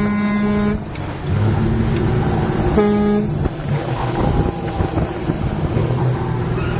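A vehicle horn sounds twice: one blast ends under a second in, and a shorter one comes about three seconds in. Between and under them is the running rumble of a vehicle engine and road noise.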